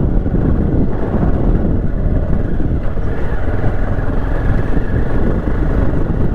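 Motorcycle running steadily while being ridden, its engine and road noise forming an even low roar.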